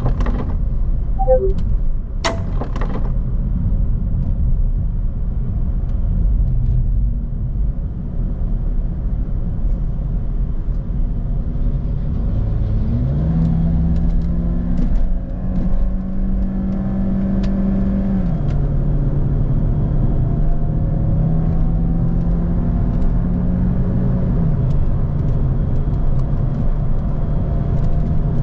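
Citroën DS4's 1.6 turbo engine heard from inside the cabin over steady road rumble, accelerating hard: its pitch jumps up about halfway through, drops at a gear change about five seconds later, then climbs again and steps down at another shift near the end. A sharp click sounds a couple of seconds in.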